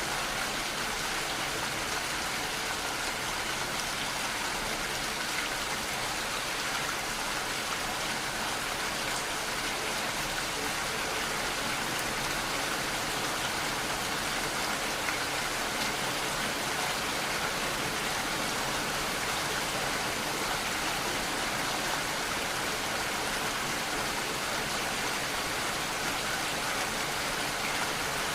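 Steady rainfall: a dense, even hiss of rain with scattered drops landing on a surface.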